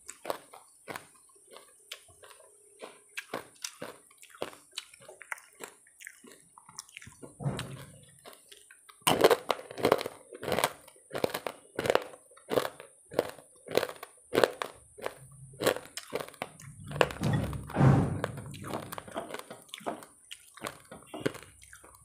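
Close-up mouth sounds of someone eating rice and curry by hand: wet smacking chewing clicks, about two to three a second, getting busier and louder about nine seconds in.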